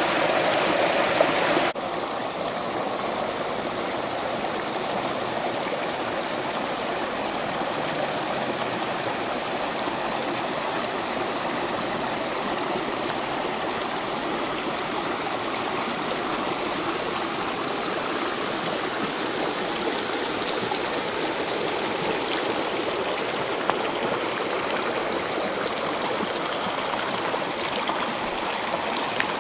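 Creek water flowing: a steady rush and gurgle of running water. About two seconds in, the sound steps down a little in loudness and changes tone, as if from a different spot along the creek, then holds steady.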